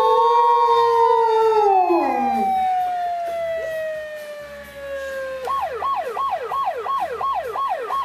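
Ambulance siren with dogs howling along for the first couple of seconds. The siren's long falling wail gives way about five and a half seconds in to a fast up-and-down yelp, about two and a half cycles a second.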